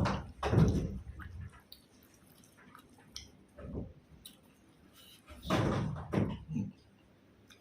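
Close-up eating noises: a person chewing and handling food, in a few irregular bursts with dull thuds and quieter gaps between.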